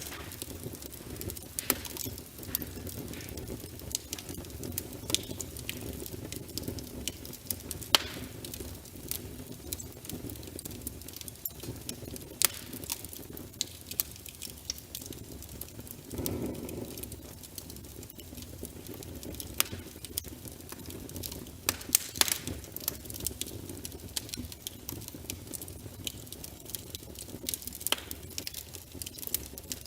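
Wood fire of burning logs in a fireplace, crackling and popping irregularly over a steady low rumble of flame. A few louder pops stand out, about eight seconds in and around twenty-two seconds in, and the rumble swells briefly about halfway through.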